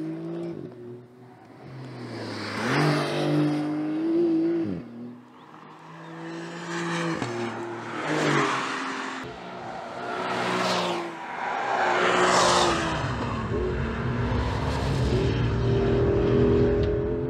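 Porsche 911 flat-six engine heard through its exhaust, revving up and easing off several times, its note climbing and dropping with a few louder surges.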